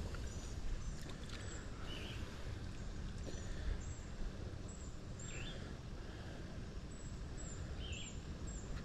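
Quiet river ambience: a steady low rumble with a bird's short call repeated about every three seconds, and fainter high chirps in between.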